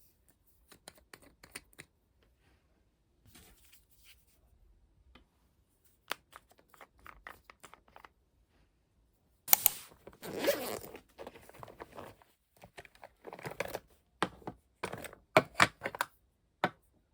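Tearing and rustling handling sounds in short bursts, loudest about halfway through and again in a run of sharp crackles near the end.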